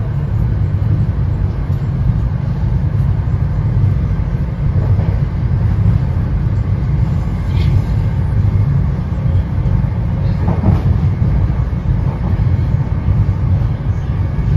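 Steady low rumble of an NJ Transit Comet passenger coach running at speed, heard from inside the car, with a few faint knocks along the way.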